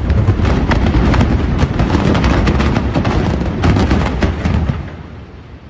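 A loud, sudden burst of rapid crackling cracks over a deep rumble, fading away after about five seconds.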